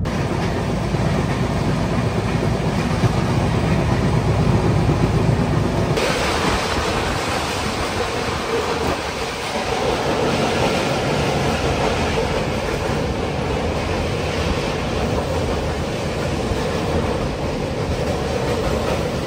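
Mumbai–Howrah Mail express train running at speed, heard on board: a steady rumble of wheels on the rails with some clickety-clack. About six seconds in the sound changes abruptly, losing much of its deep rumble, as the train crosses a river bridge.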